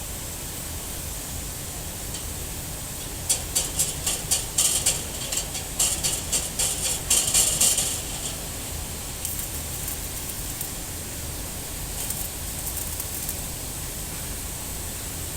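Electric arc welding: bursts of crackling and sputtering over a steady hiss and low hum, densest from about three to eight seconds in, then lighter crackling twice more.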